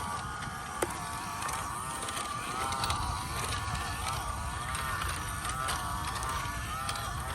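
Small 370 brushed electric motor and single-speed metal gearbox of a 1/16 WPL C24-1 RC crawler whining, the pitch rising and falling again and again as the throttle is worked, over a low rumble. A sharp click comes a little under a second in.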